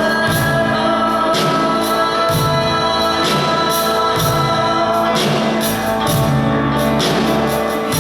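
Gospel song with singing over a live band, with a steady beat and regular cymbal strokes.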